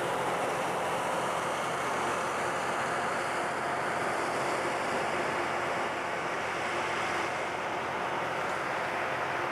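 LORAM rail grinder train running along the track: a steady rumble and rushing noise of its engines and wheels, easing off slightly near the end.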